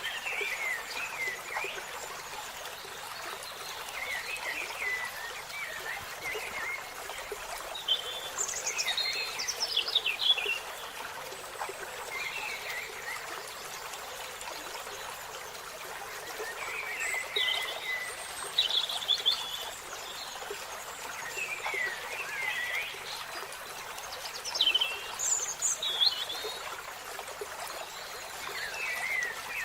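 Wild birds calling in short chirping phrases at irregular intervals, over a steady background hiss.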